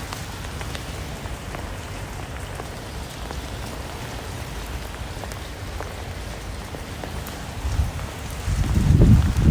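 Steady rain falling, with scattered individual drops ticking distinctly. About a second before the end, a much louder low rumble sets in.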